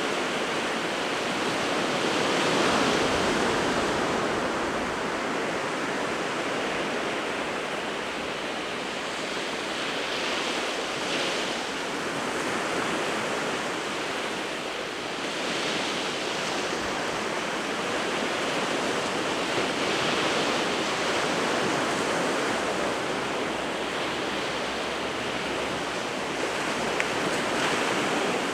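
Sea waves breaking and washing on the shore: a continuous rushing surf that swells with each breaker every few seconds.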